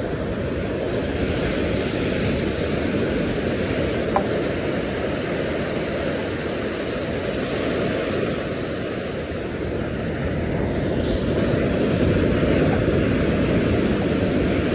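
Steady low rushing of surf breaking on the beach, swelling a little louder in the last few seconds, with one small click about four seconds in.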